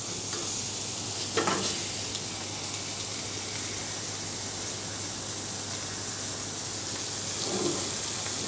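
Bacon-wrapped chicken breast being seared in hot oil in a frying pan, sizzling with a steady hiss. A single short knock sounds about a second and a half in.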